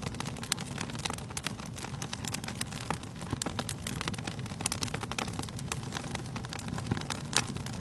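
Wood fire burning in a fireplace: many irregular sharp crackles and pops of the burning logs over a steady low rumble of the flames.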